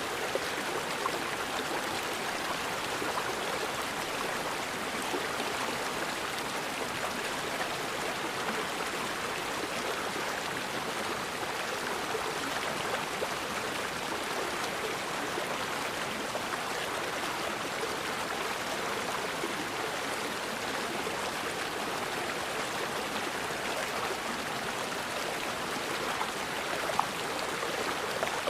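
Forest river water flowing steadily, an even rush of running water without breaks.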